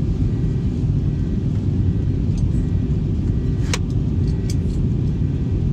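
Airbus A321 airliner making a steady low rumble, with one sharp click about two-thirds of the way through.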